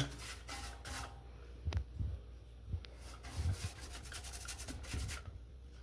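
Paintbrush strokes rubbing liquid rust remover onto a rusty metal fire bowl: a soft, irregular scrubbing of bristles on metal, with a couple of light ticks.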